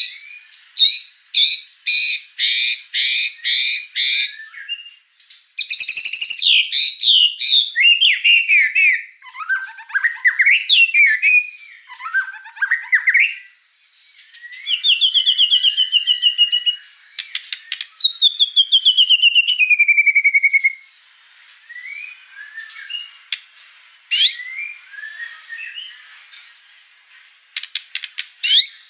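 White-rumped shama (murai batu) singing loudly and continuously, in varied phrases of repeated notes, whistles and trills. A long falling trilled note comes about two-thirds of the way through, and the phrases are softer after it.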